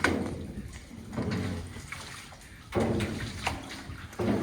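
Water sloshing around a small rowed boat, with a sharp knock right at the start and a few irregular low swells of splashing.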